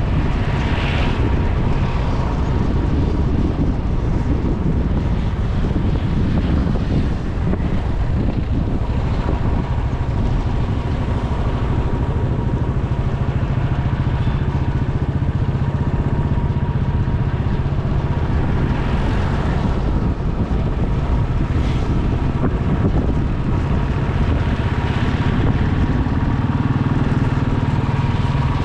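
Motorcycle engine running steadily while being ridden, a constant low drone with wind noise on the microphone and passing traffic around it.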